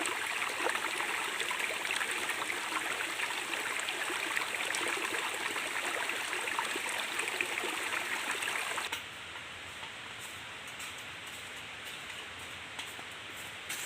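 Running water, a stream flowing steadily with a rushing, dense sound. About nine seconds in it cuts off abruptly to a quieter hiss with a few faint clicks.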